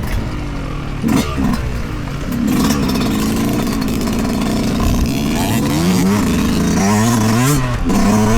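2023 Yamaha YZ125 two-stroke single-cylinder dirt bike engine on the trail, revved and let off, louder from about two seconds in, with its pitch swinging up and down several times near the end and a few sharp knocks.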